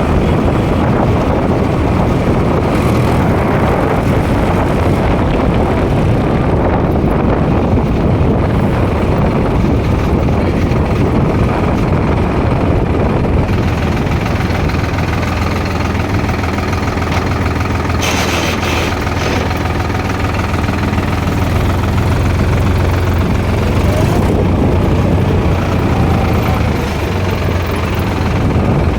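Tractor engine running steadily as the tractor is driven along.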